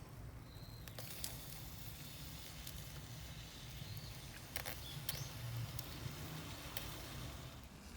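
Scattered light clicks and taps at a small charcoal grill, several sharp ones about halfway through, over a low steady hum.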